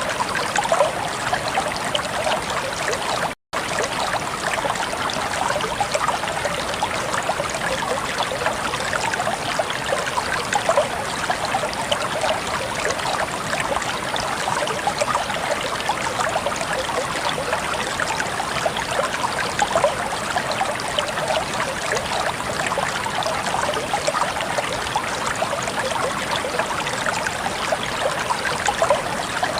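Clear running water trickling and babbling steadily, with a momentary cut-out about three and a half seconds in.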